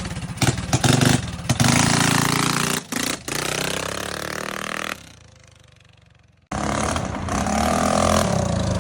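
Small single-cylinder engine of a customised Trailmaster mini bike running and revving as it is ridden, the pitch sliding down and up with the throttle. About five seconds in the sound fades away, then cuts back in abruptly a second and a half later.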